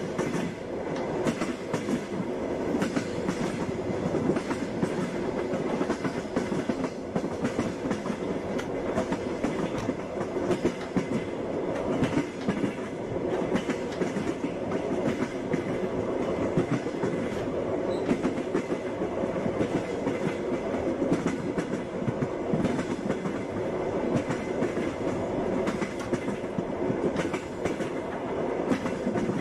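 Passenger train running, its wheels knocking over the rail joints in a continuous clickety-clack above a steady rumble.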